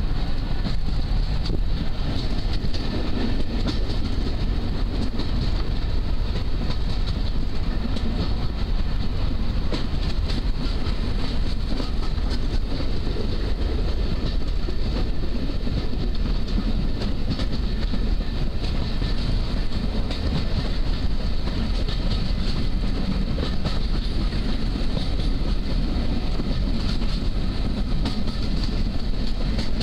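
Class 205 'Hampshire' diesel-electric multiple unit on the move, heard from on board at the window: a steady, heavy running rumble with a light clatter of wheels over the rails.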